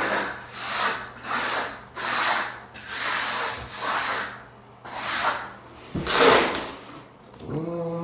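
A hand float scraping back and forth over the damp sand-mortar bed of a shower pan, about eight gritty strokes at roughly one every 0.8 s. A short hummed voice comes near the end.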